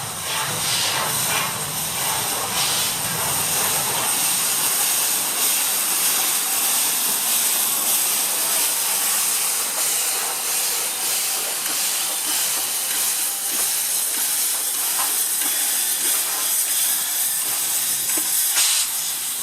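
A steam locomotive hissing, with steam escaping in a steady high-pitched rush and no exhaust beats. A single sharp knock comes near the end.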